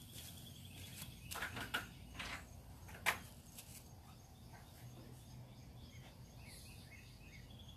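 Early-morning outdoor ambience: a steady high insect trill, a few short sharp sounds in the first three seconds with the loudest about three seconds in, and faint bird chirps near the end, over a low steady rumble.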